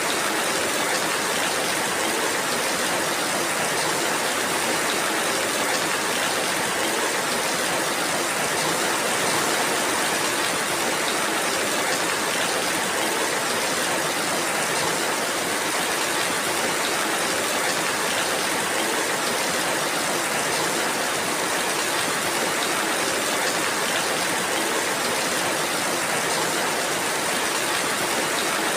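Steady rainfall: an even, dense hiss of rain in which no single drops stand out, holding at the same level throughout.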